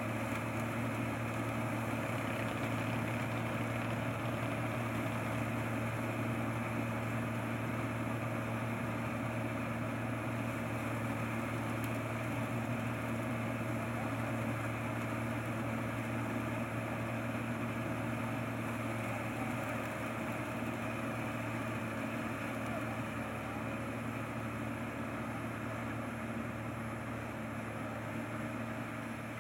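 A combine harvester's engine running steadily at a constant speed, with a droning hum that does not change.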